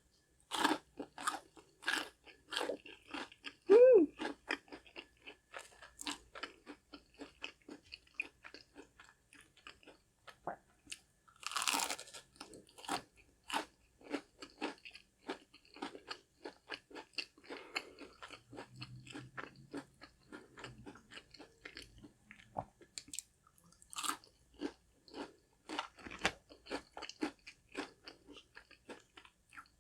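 Close-miked bites and chewing of crispy fried chicken nuggets, a dense run of crisp crunches from the fried breading, with a few louder bites among them.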